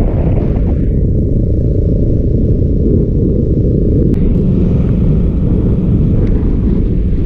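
Custom chopper motorcycle being ridden: a steady, loud low rumble of engine and wind buffeting the microphone.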